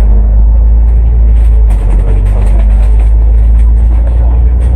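Cummins ISL8.9 diesel engine of an Alexander Dennis Enviro500 MMC double-decker bus running steadily at an even engine speed, heard on board as a loud, low drone.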